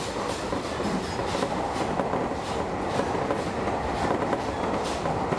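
Electric commuter train running along the line, with a steady rolling rumble and the wheels clicking over rail joints again and again.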